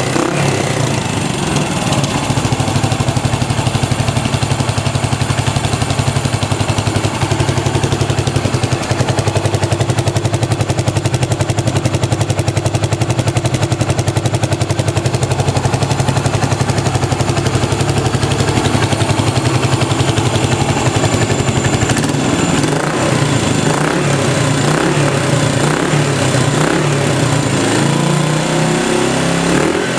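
Yamaha SR400's air-cooled single-cylinder four-stroke engine running with a steady, rapid pulsing beat, which grows less regular over the last several seconds.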